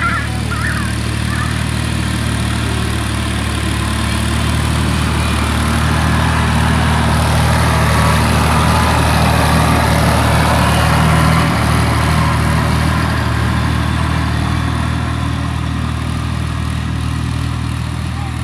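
Two-wheel power tractor (power tiller) engine running steadily after being started, its sound swelling slightly in the middle and easing back.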